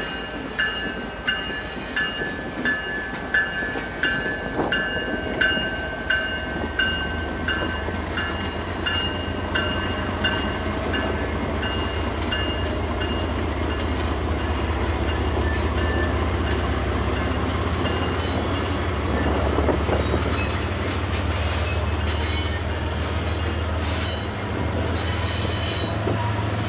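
Kansas City Southern diesel locomotives passing close by, their engines running in a steady low drone. A bell rings steadily over them and fades out about halfway through. Loaded grain hopper cars then roll past on the rails.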